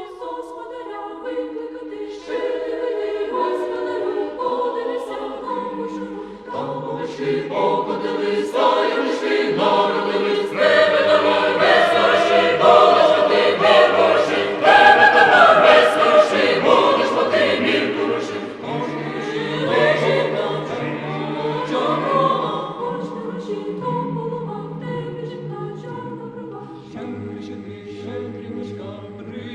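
Choral Christmas music: a choir singing without clear words over an instrumental backing, swelling to a peak midway and easing off toward the end.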